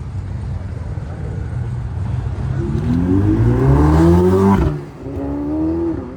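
Ferrari 488 Pista's twin-turbo V8 accelerating, its revs climbing steadily for about two seconds. It cuts off sharply a little before five seconds in, then pulls again briefly.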